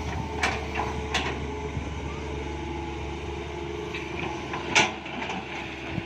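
Excavator engine running steadily, with a few sharp knocks, the loudest nearly five seconds in.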